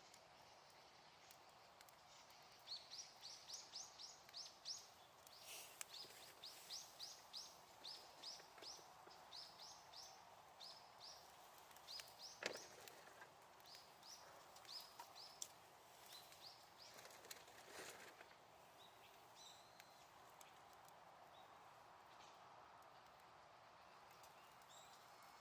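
A wild bird calling faintly in long rapid runs of short, high, sweeping notes, several a second, over the faint crackle and hiss of a small wood campfire with a few sharp pops, the loudest about halfway through.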